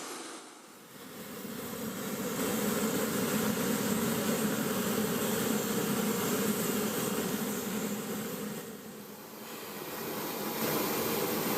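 Steady rushing turbine noise of an MV-22 Osprey tiltrotor running on the ground, with a deep hum under a hiss. It drops away briefly about a second in and again near the end before coming back.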